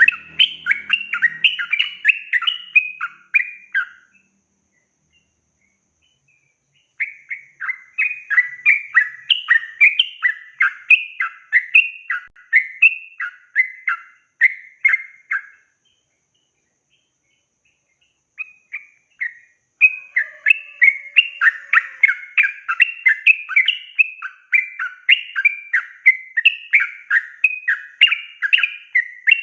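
Yellow-vented bulbul (trucukan) singing a rapid, chattering run of notes, about three a second, in long bursts. The song breaks off twice, at about four seconds and at about fifteen and a half seconds, and resumes each time.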